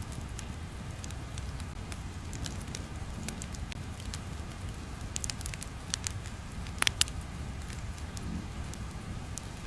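Wood fire crackling: irregular sharp pops over a steady low rumble, with two louder pops in quick succession about seven seconds in.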